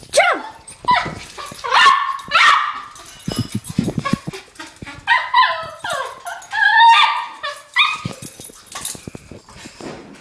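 Dog barking, yipping and whining again and again in an excited run of short calls, with a few thumps between them.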